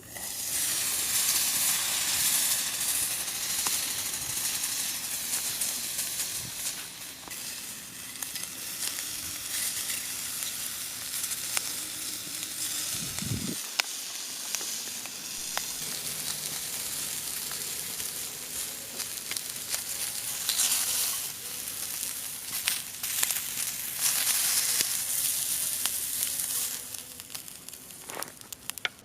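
Steady sizzling hiss over a wood fire, with scattered crackles and pops.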